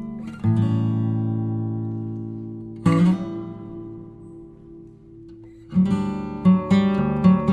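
Background music on acoustic guitar: plucked chords left to ring and fade, then a quicker run of notes near the end.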